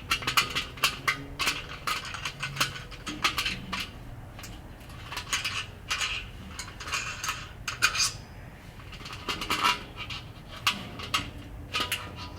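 Metal clicking and scraping as a lid thermometer and its fittings are turned and worked into a Weber kettle grill's steel lid, in irregular clusters of small clinks.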